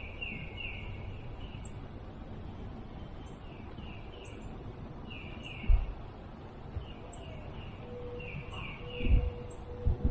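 A bird calling repeatedly, short high notes in quick groups of three or four, over a steady outdoor hiss. A few low thumps break in about six seconds in and twice near the end.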